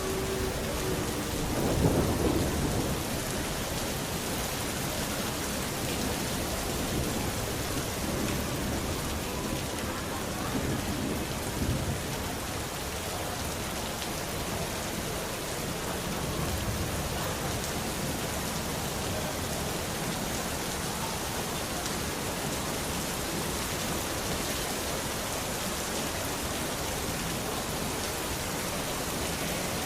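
Steady heavy rain with low rolls of thunder, the loudest about two seconds in and fainter ones later.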